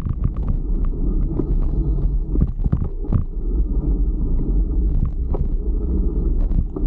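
Steady low rumble of wind buffeting the microphone and road noise while riding a bicycle, with scattered short clicks and knocks.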